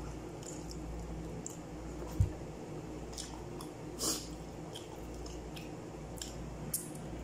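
Wet chewing and mouth smacking from a person eating goat trotters, with short scattered clicks over a steady low hum; a sharp low thump about two seconds in and a brief louder smack about four seconds in.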